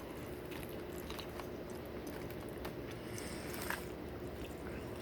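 A person chewing and biting food close to the microphone, with small wet clicks and a couple of slightly louder bites, over a faint steady hum.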